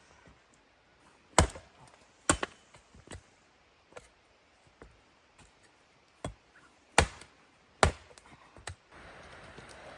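Wood being chopped: about seven sharp, separate strikes at an uneven pace. Near the end a steady hiss sets in.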